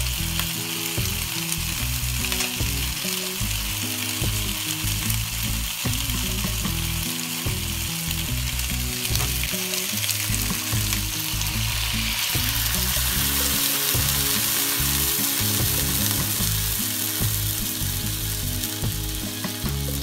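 Chicken wings sizzling in a hot nonstick wok. About twelve seconds in, the hiss grows louder and brighter as Coca-Cola pours in and boils up around the wings. Soft background music plays underneath.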